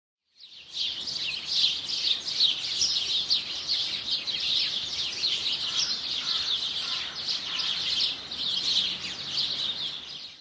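Many small birds chirping together: a dense, unbroken chatter of quick high notes that starts about half a second in.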